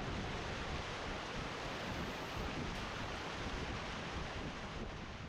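Seawater rushing steadily off the rocks of a tidal 'horizontal waterfall' as a spring tide drops.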